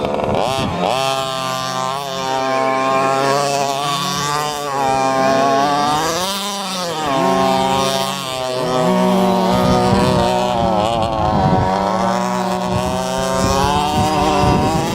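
1/5-scale HPI Baja's two-stroke gasoline engine running hard, its pitch falling and climbing again several times as the throttle is lifted and reopened, with the deepest drop about six to seven seconds in.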